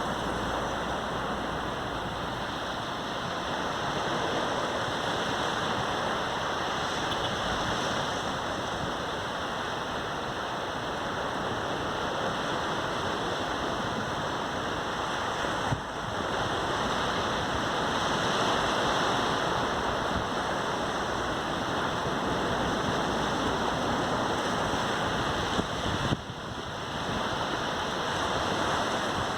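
Caribbean Sea surf on a sandy beach: a continuous wash of breaking waves, swelling and easing slowly. There are two brief clicks with a momentary dip, about a third of the way in and again near the end.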